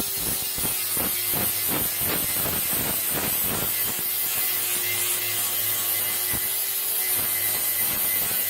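A grinder grinding the steel of an old bolt cutter part held in a vise, leaned on with heavy pressure to take metal off fast and flatten it. It makes a steady motor tone under a harsh grinding hiss, pulsing rapidly over the first few seconds and then running more evenly.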